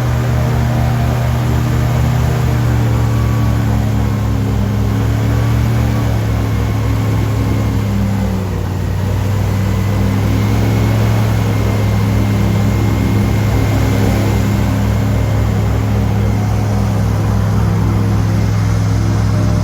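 Airboat's engine and air propeller running loudly and steadily, easing off briefly about halfway through before picking back up.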